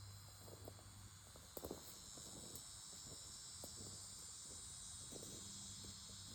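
Faint, steady, high-pitched insect chorus, with a few light taps and knocks about one and a half seconds in.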